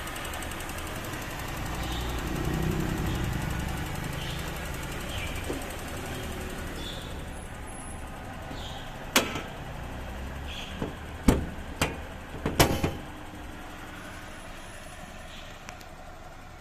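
Toyota Kijang LGX 1.8 petrol engine idling steadily, with a cluster of sharp knocks and clacks about halfway through.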